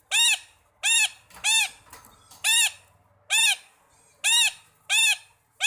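Macaw squawking: a series of eight short, harsh calls, each rising and falling in pitch, repeated about once a second.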